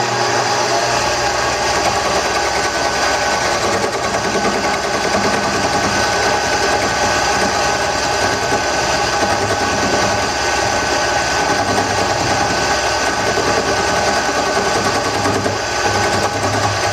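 Wood lathe running steadily, with a turning tool cutting into a spinning ambrosia wood blank for a tool handle: a motor hum under the rough, grainy noise of the cut.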